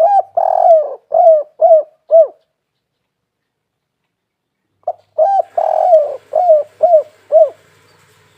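Spotted dove cooing: two song phrases a few seconds apart. Each is a short note, a longer rolled coo, then three or four short clipped coos.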